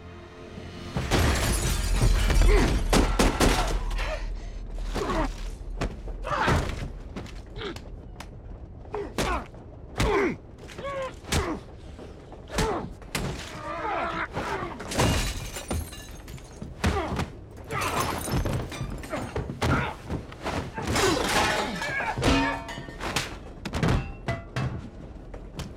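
Film fight sound: a long run of heavy thumps and crashes from blows and bodies hitting surfaces, with glass shattering and short strained grunts between the hits. The impacts come at irregular intervals, loudest and most crowded in the first few seconds.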